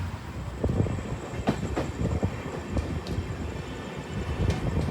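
Passenger train coach running on the track, heard from inside the coach: a steady low rumble with irregular clacks and knocks from the wheels and running gear.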